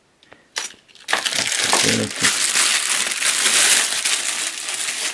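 Wrapping being crinkled and rustled by hand, a loud dry crackling noise that starts about a second in and runs on for about four seconds, after a short click.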